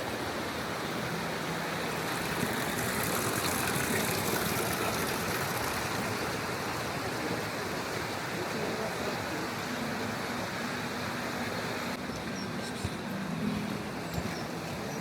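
Steady rushing noise with no distinct events, its hiss thinning out about twelve seconds in.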